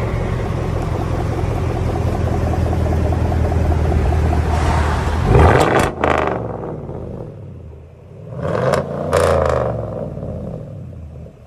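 2019 GMC Sierra's 5.3 L V8 through a true dual straight-pipe exhaust, being revved. It holds a long rising rev to a sharp peak about five and a half seconds in, drops back to idle, then gets two quick blips of the throttle near nine seconds.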